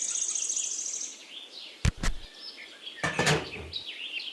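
Birds chirping, with a rapid high trill in the first second. Two sharp clicks come just before the two-second mark, and a brief swish follows about a second later.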